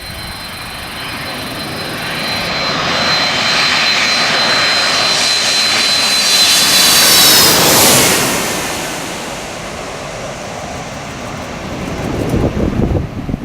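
An airliner passing close overhead. Its engine noise swells to a peak about halfway through, with a high whine that drops in pitch as it goes by, then fades away. Near the end there are gusts of wind on the microphone.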